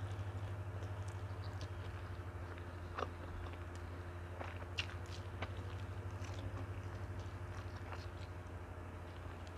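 Close-miked chewing and mouth sounds of someone eating rice with cassava-leaf rendang by hand, with scattered small clicks and a sharper one about 3 and 5 seconds in. A steady low hum runs underneath.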